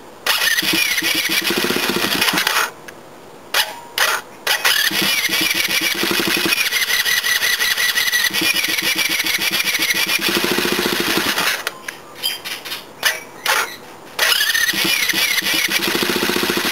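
Mini bike's small engine being cranked on its electric starter in repeated bursts, the longest about seven seconds, with a whining starter and pulsing compression strokes; the cold engine does not catch because the choke is off.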